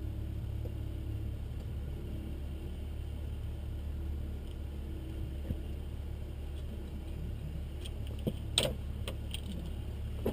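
Steady low hum inside a small-aircraft cockpit before engine start, with a few sharp clicks and a short rattle about eight seconds in as things are handled in the cockpit.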